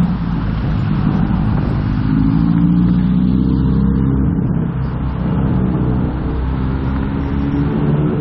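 Motorcycle engine running while under way, its pitch rising a little about two seconds in as it picks up speed, over a low rumble of wind and road noise.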